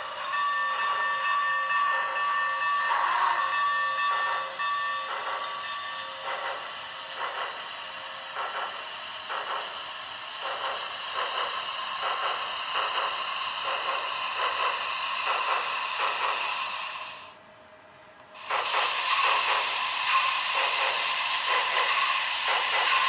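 Model steam locomotive sound system playing through a small onboard speaker: a steady chime whistle for the first few seconds, then regular steam chuffing. The sound drops out for about a second about three-quarters of the way through, then resumes.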